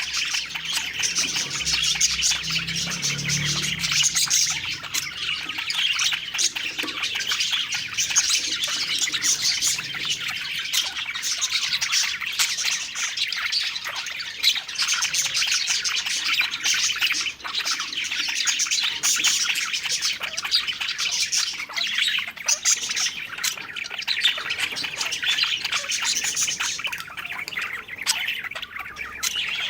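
A flock of budgerigars chattering and warbling without pause, many rapid overlapping chirps and tweets with an occasional squawk.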